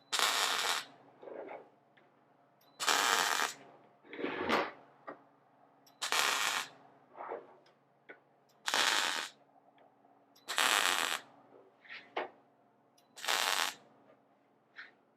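A welder laying a string of tack welds on sheet steel: short crackling bursts of under a second each, about every two to three seconds, with smaller sputters between them.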